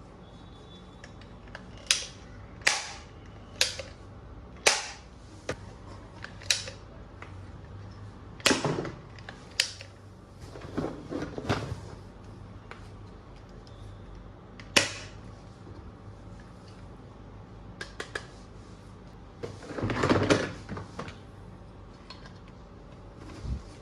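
Plastic toy guns being handled: a dozen or so sharp clicks and clacks at irregular intervals, some in quick clusters, with a longer rattling clatter about twenty seconds in.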